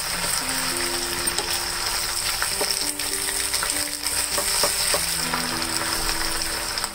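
Fresh spinach leaves sizzling in hot oil in a non-stick pan as they are stirred with a wooden spatula, with a few sharp clicks of the spatula against the pan. Soft background music with held notes plays underneath.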